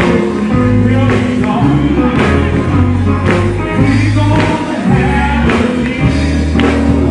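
Live gospel quartet music: a band with bass notes and a drum beat playing, with singing over it.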